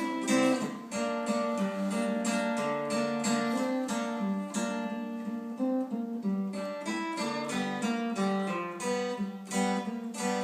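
Acoustic guitar being strummed, playing a steady run of chords as an instrumental passage.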